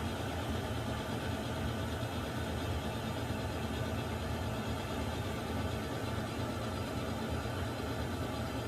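Water heater running: a steady low hum with an even hiss above it, unchanging throughout.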